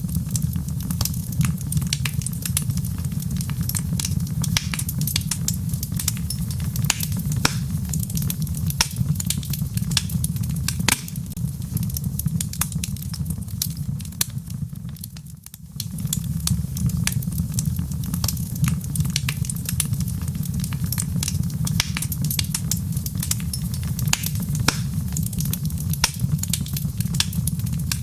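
Wood fire burning in a fireplace: logs crackling with frequent sharp pops over a steady low rumble. The rumble dips briefly about halfway through, then comes back.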